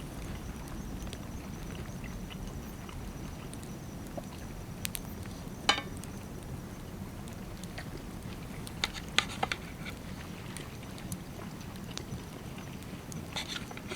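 Steady low rumbling outdoor background with a few short clicks and taps, the sharpest about six seconds in and a quick pair around nine seconds in.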